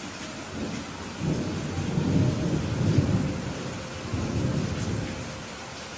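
Steady rain falling, with a rolling thunder rumble that builds about a second in, peaks a couple of seconds later, swells once more and fades out near the end.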